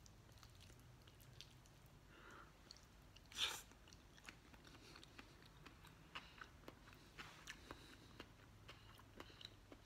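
Faint chewing of a mouthful of steak tartare, raw finely chopped beef, with many small wet mouth clicks and one brief louder noise about three and a half seconds in as a forkful goes into the mouth.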